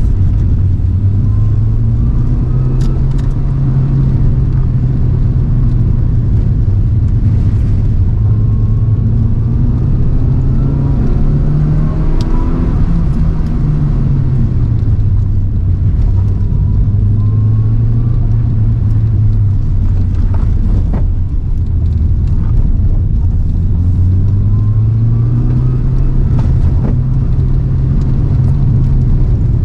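Toyota AE111 Trueno's engine under load during a timed sprint run, held in one gear. Its revs rise and fall slowly, peaking about twelve seconds in and climbing again near the end, with a few brief knocks along the way.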